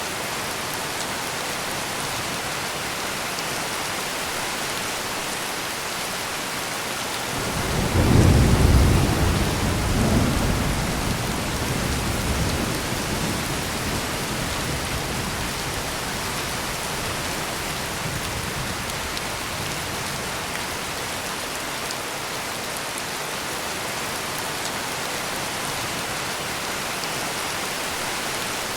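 Heavy rain pouring steadily, with one long roll of thunder that swells in about a quarter of the way through, peaks with a second surge soon after and rumbles away over several seconds.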